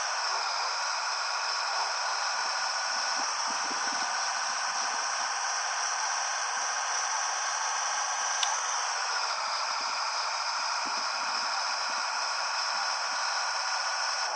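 Scania 113H 360 truck's six-cylinder diesel running steadily under way, with a high whine and a rushing hiss over it. A faint click about eight and a half seconds in, after which the pitch drops slightly and holds.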